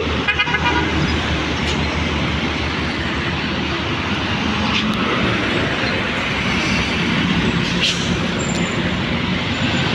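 Heavy truck passing on the road: steady engine and tyre noise with a low engine drone.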